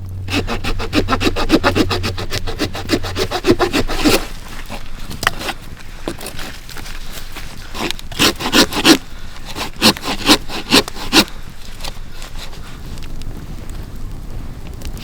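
A hand tool working wood: rapid scraping strokes, about ten a second for the first four seconds, then two short runs of strokes later on.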